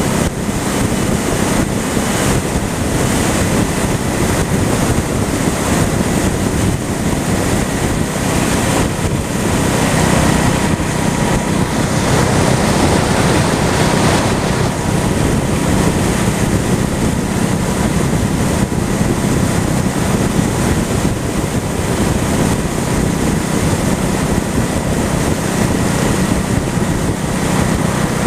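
Steady wind rush buffeting the microphone on a moving motorcycle, with the Honda Shadow's V-twin engine running evenly underneath at cruising speed.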